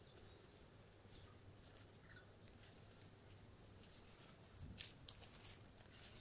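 Near silence: faint garden ambience with a few short, faint high chirps from birds.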